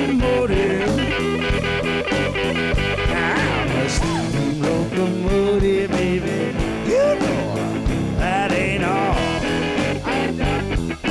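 Blues song played on guitar over a steady beat, with notes bending up and down in pitch.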